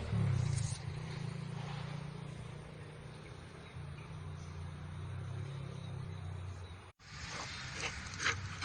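Steady low engine hum of a running vehicle, broken off abruptly about seven seconds in, followed by a few short sharp sounds near the end.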